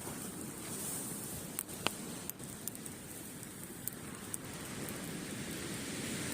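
Campfire crackling, with half a dozen sharp pops over a steady wash of breaking waves that swells near the end.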